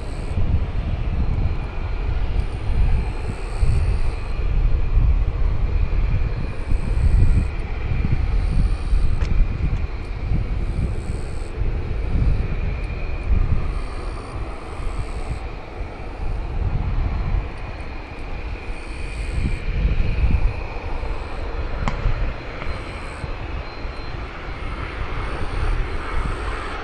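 Engines of a Cessna 560 Citation twin-turbofan business jet running, a steady high whine over a low, uneven rumble.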